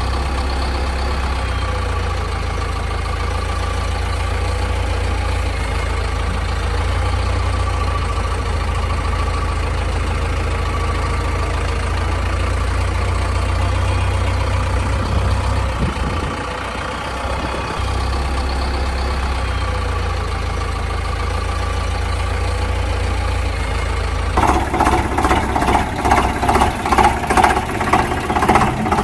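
Vehicle engine idling steadily. About 24 seconds in, the sound changes to a pulsing beat, a few pulses a second.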